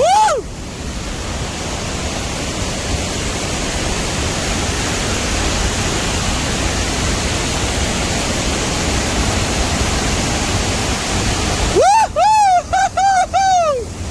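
Steady roar of Dudhsagar Falls, a dense, even rush of falling water. Near the end, a quick string of about five short high calls, each rising and falling in pitch, cuts in over it.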